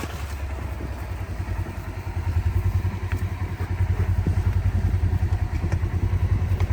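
Vehicle engine running with a low, pulsing rumble that grows louder about two seconds in.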